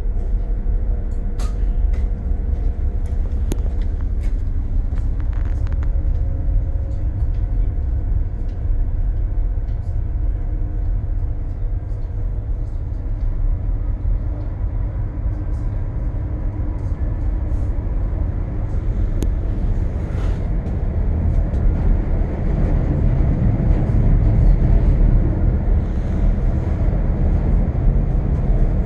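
Steady low rumble and hum of a ferry's engines, with scattered light clicks and clanks; it grows a little louder about three-quarters of the way through.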